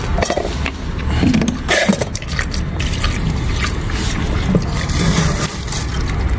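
Clicks and scraping from food and containers being handled, over a steady low rumble.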